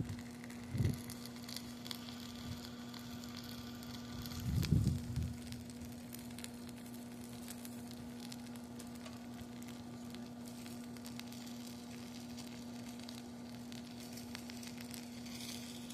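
Small fire burning trash in a little barbecue pit, crackling with scattered light pops over a steady low hum. Two low bumps come about a second in and again near five seconds.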